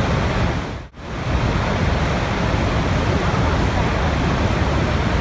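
Steady rushing water noise, dense and deep, that fades out and back in abruptly just under a second in.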